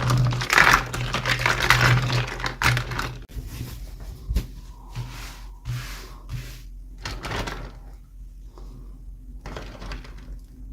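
Packaging and small plastic toy parts being handled in an unboxing: dense crinkling and clicking for the first few seconds, then scattered clicks and rustles.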